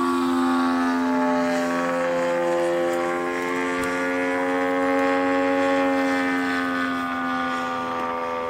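Engine and propeller of a large-scale RC model Zlin 50 aerobatic plane running steadily at low throttle on its approach to land, the pitch swaying gently as it flies past.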